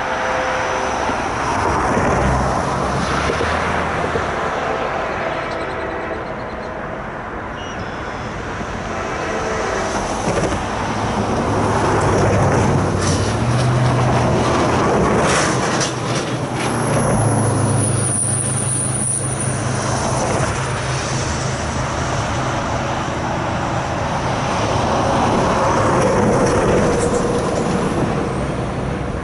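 Freight train passing: diesel locomotives running with a low engine drone, along with the steady rumble of wheels on rails and a few sharp clanks about halfway through.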